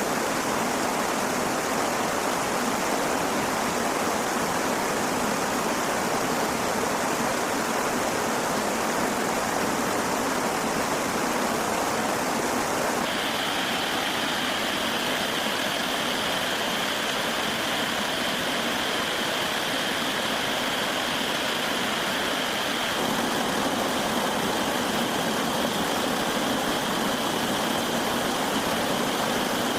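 Steady rushing noise like running water. About thirteen seconds in, a steady high-pitched tone joins it.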